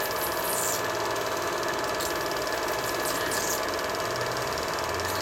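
Film projector running: a steady motor hum with a rapid, even mechanical clatter from the film advance.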